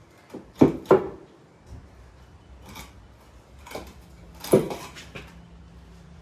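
Pieces of timber knocking against each other as they are handled and set in place: two loud knocks close together about half a second in, another loud knock about four and a half seconds in, and lighter knocks between.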